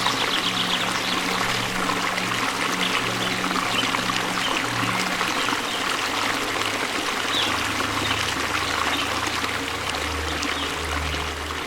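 Waterfall: falling water splashing and rushing in a steady, unbroken wash.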